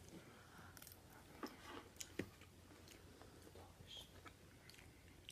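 Faint close-up chewing of a mouthful of scrambled egg, with a few soft scattered clicks.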